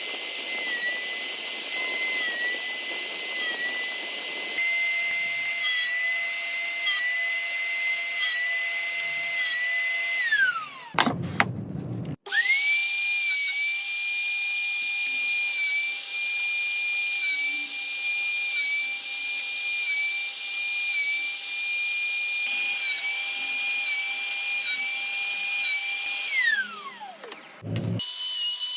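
A small power tool's motor running with a steady high whine that dips slightly now and then. It winds down and stops about ten seconds in, starts up again a couple of seconds later, and winds down again near the end.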